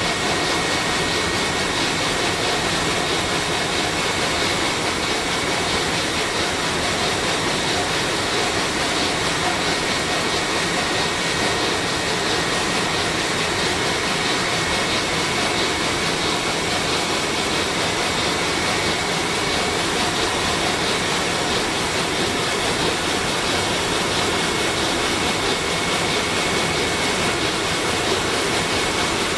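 Sulzer 12RTA96C twelve-cylinder two-stroke marine diesel main engine running steadily at about 70 rpm: a constant, even engine-room noise with faint steady whines over it.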